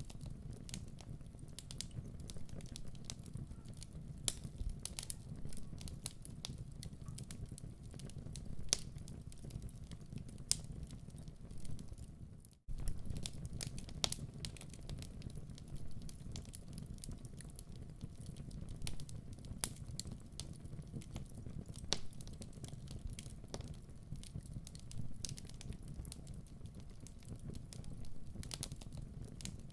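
Wood fire in a fireplace crackling, with frequent irregular sharp pops over a low steady rumble. The sound cuts out for an instant about twelve and a half seconds in.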